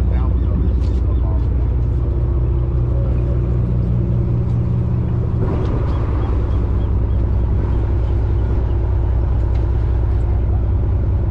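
A boat's engine running with a steady low drone. About halfway through, its tone shifts and a rush of noise joins it.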